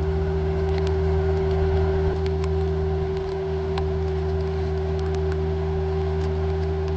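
Vermeer mini skid steer's engine running at a steady speed, with a constant hum held at one pitch and a few faint ticks.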